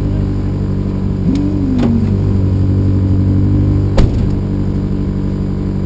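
Suzuki Swift rally car's engine running at a fairly steady speed, with a short whine that rises and falls about a second and a half in and a single sharp knock about four seconds in.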